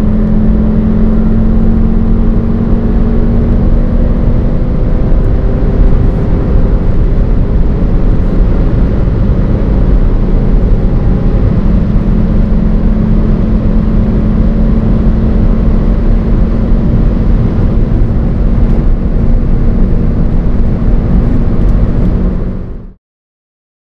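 Onboard sound of a turbocharged four-cylinder hot hatch at steady speed: a constant engine drone mixed with loud road and wind noise. It cuts off suddenly near the end.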